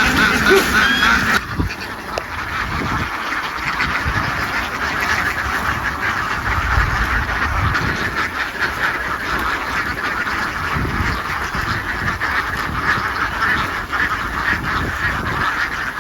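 A large flock of farmed ducks quacking together, a dense, continuous din of overlapping calls. A louder noise over it in the first second and a half stops abruptly.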